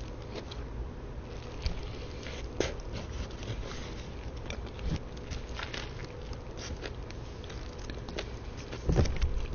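Close-miked eating: a person biting into and chewing fast food, with many small, sharp, crisp clicks and a louder run of bites and chews near the end.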